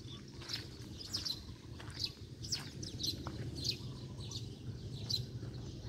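Small birds chirping: short, high, falling chirps about two a second, over a steady low background rumble.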